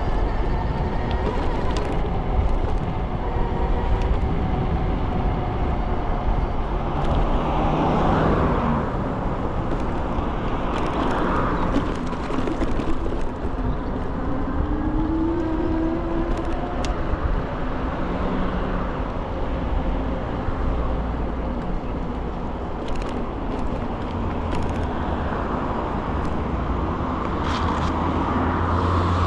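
Wind and road rumble of a ride on an electric scooter, with a faint motor whine sliding up and down in pitch as the speed changes and car traffic around.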